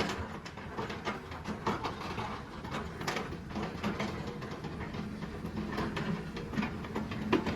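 Diesel engine of a tracked logging machine, such as a crawler bulldozer or excavator, running steadily while its steel tracks clank and rattle in quick, irregular knocks.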